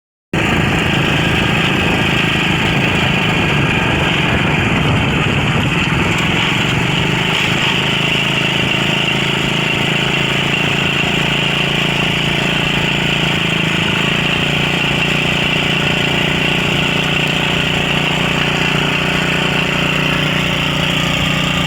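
Small engine running steadily at a constant speed, with a slight shift in pitch about halfway through.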